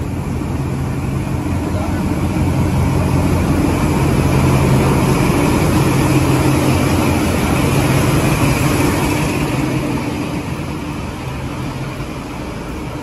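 Passenger train running: a steady low engine hum over a broad rumble, growing louder over the first five seconds and easing off after about nine.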